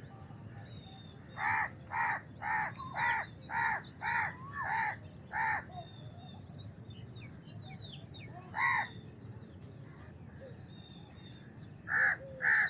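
House crow cawing: a run of about eight harsh caws roughly two a second, a single caw a few seconds later, then two more near the end. Small birds chirp faintly throughout.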